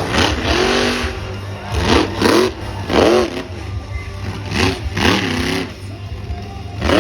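Truck engine revved in short repeated blips, each one rising and falling in pitch, about one or two a second over a steady low rumble.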